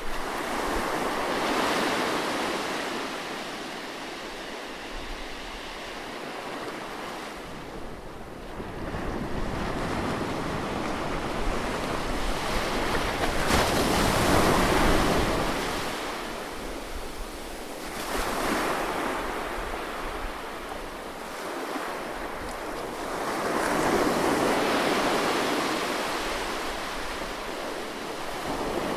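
Sea waves breaking close by and washing back, in slow surges every several seconds, the loudest about halfway through.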